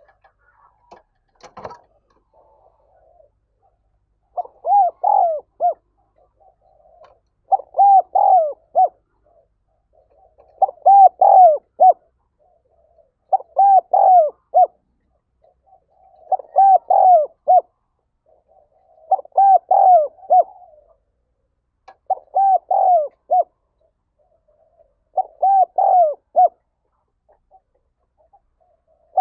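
Spotted dove cooing: a short phrase of several coos repeated about every three seconds, eight times, starting about four seconds in. This is the urgent, quick-repeated 'thúc' cooing that keepers play to rouse other doves.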